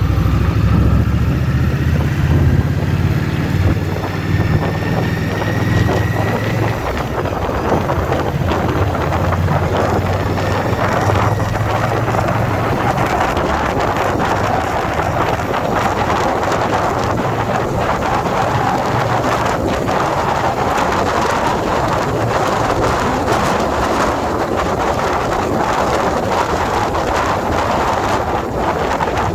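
Indian Scout Bobber's V-twin engine running under load, rising in pitch over the first several seconds, then fading under wind rushing over the microphone at riding speed for the rest.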